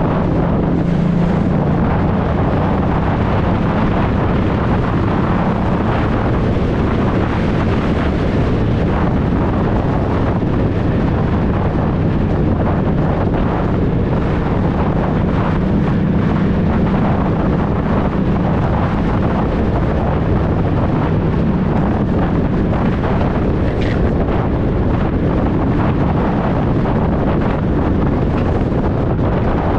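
Honda Deauville NT650V's V-twin engine with a Dominator aftermarket exhaust, running steadily while riding, with wind rushing over the microphone.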